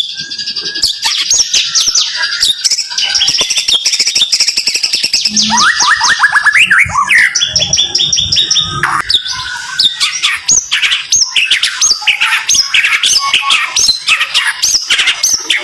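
Murai batu (white-rumped shama) singing a dense rapid-fire song: fast runs of repeated sweeping notes and chirps with hardly a pause.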